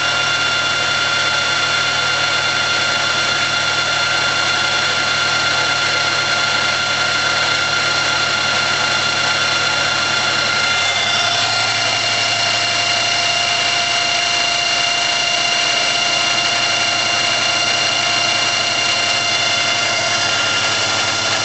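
RF45 CNC milling machine running, a steady machine hum with several high whining tones; about eleven seconds in the tones shift to a new set, as the speed or motion of the machine changes.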